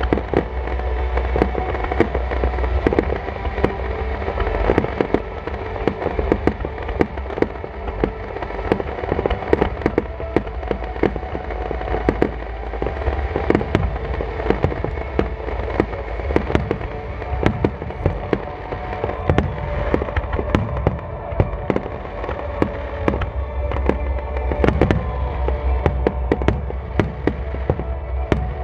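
Star mine fireworks barrage: many shells fired in quick succession, bursting in a dense run of overlapping bangs, several a second, with no let-up.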